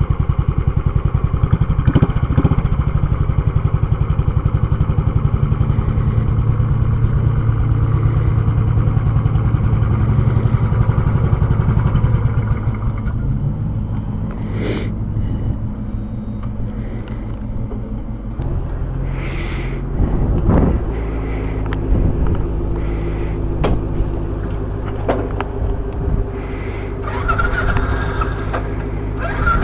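Royal Enfield Classic 500 single-cylinder engine running through a short, baffle-free muffler, giving a raw, chugging exhaust note. It runs harder for the first dozen seconds, then drops back to a quieter, steadier note.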